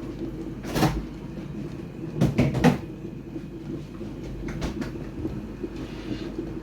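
Kitchen clatter: a knock about a second in, then three quick knocks close together around two and a half seconds, and a couple of fainter clicks later, over a steady low hum.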